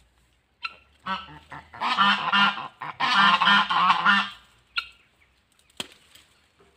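A bird calling loudly in two quick runs of repeated calls, from about a second in to just past four seconds, with a few short clicks around them.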